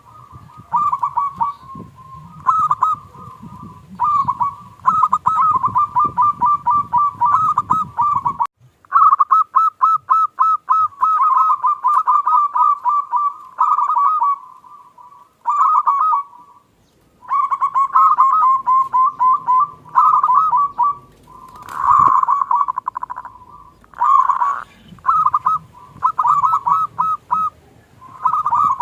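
Zebra doves (perkutut) cooing: repeated phrases of rapid, stuttering coos, one after another with short breaks between them.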